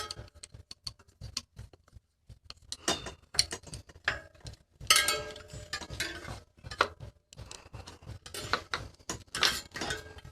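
Metal bike parts and tools being handled, giving scattered clicks, clinks and knocks, with a few louder bouts of clattering.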